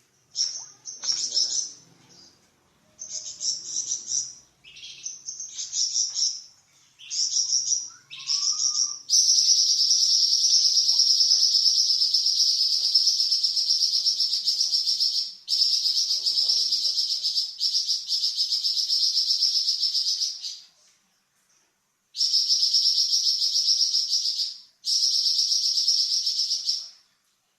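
Flamboyan songbird singing its varied song: short, sharp high-pitched phrases for the first nine seconds, then long, unbroken, high buzzing trills ('nyecret panjang') lasting several seconds each, with brief pauses between them.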